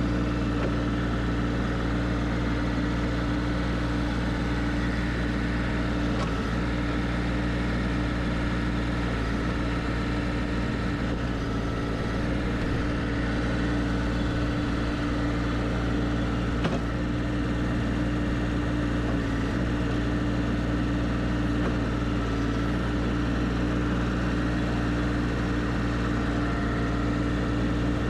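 Toro TX1000 compact track loader's 25 hp diesel engine running steadily at a constant speed, a continuous even engine drone with a steady pitch.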